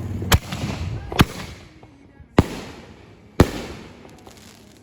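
Fireworks going off: four sharp bangs, roughly a second apart, each trailing off into a short echo.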